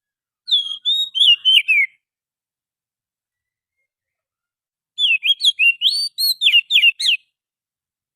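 Oriental magpie-robin singing: two phrases of quick, sliding whistled notes, one beginning about half a second in and the other about five seconds in, each lasting about two seconds.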